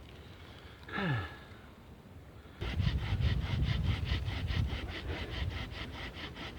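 Hand saw cutting through a thick log section with quick, even back-and-forth strokes, about five a second, starting about two and a half seconds in. Before that, a brief falling tone about a second in.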